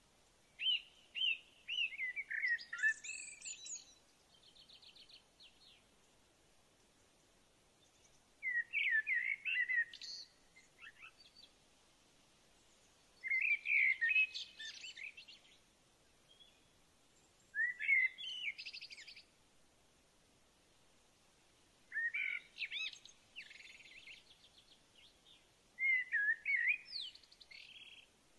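A songbird singing short warbling phrases, six of them, about every four to five seconds, some followed by a faint rattling trill, with quiet gaps between.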